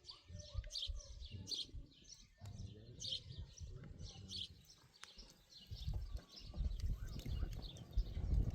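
Small birds chirping over and over, with a low, uneven rumble underneath that grows louder over the last few seconds.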